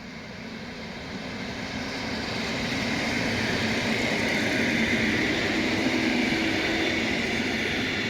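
A train passing, its rumble and rail noise building over the first few seconds to a peak about five seconds in, then easing slightly.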